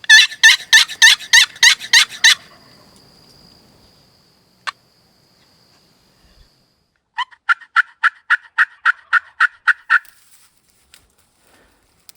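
Two runs of turkey yelps: a loud, raspy series of about eight notes at roughly four a second at the start, then after a pause a second, steadier series of about a dozen notes.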